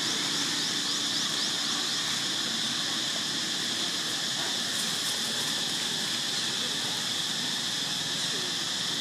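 Steady outdoor ambience dominated by a continuous high-pitched insect drone, with a quick series of short rising chirps in the first two seconds.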